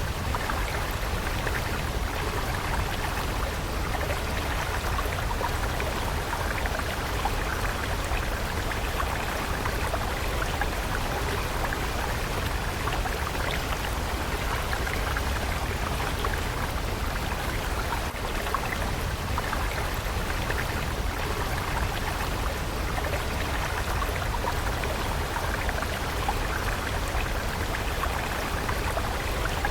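Flowing water stream, a steady rushing with fine droplet and splash sounds.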